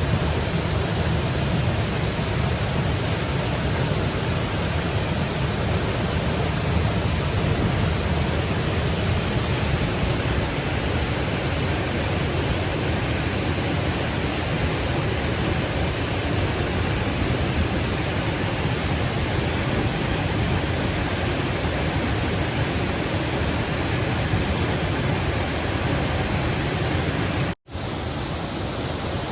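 Steady rushing of stream water, an even wash of noise with no breaks. It cuts out for an instant near the end and comes back slightly quieter.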